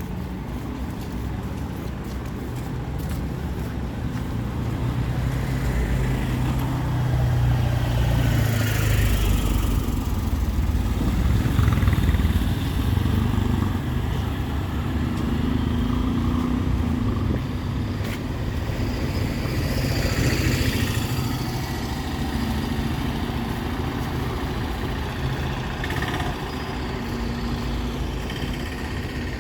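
Street traffic: engines running steadily, with vehicles passing close twice, about a third of the way in and again past the middle.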